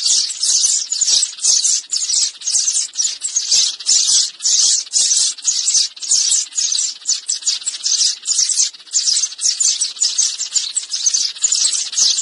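Sparrows chirping: a dense, unbroken stream of high, rapid chirps.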